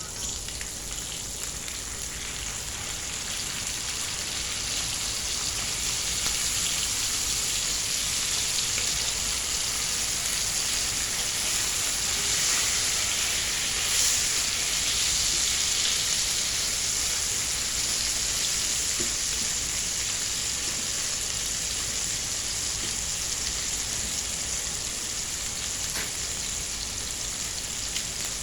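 Chicken steak frying in butter in a pan, a steady sizzle that grows louder over the first few seconds and eases slightly toward the end.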